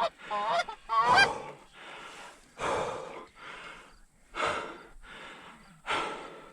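A quick run of goose honks in the first second or so, followed by three loud, breathy huffs about a second and a half apart.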